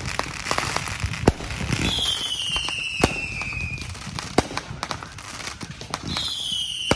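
Consumer fireworks going off: a run of sharp pops and bangs with crackling between them. Twice, a whistling firework's whistle slides down in pitch over about two seconds, about two seconds in and again near the end.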